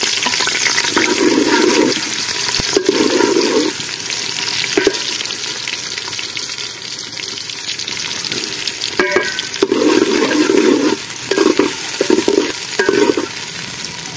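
Chopped onions and green chillies sizzling steadily in hot ghee in an aluminium pot, with several louder low bursts. There is a short clatter about nine seconds in as the chillies drop in, and the bursts come more often after it.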